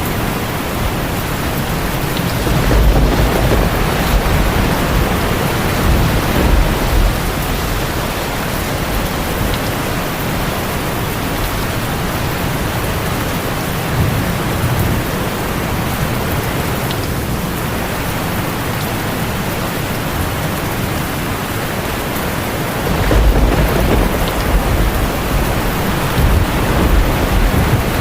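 Heavy rain falling steadily on a tin roof, with two long rolls of deep thunder: one starting about three seconds in, the other near the end.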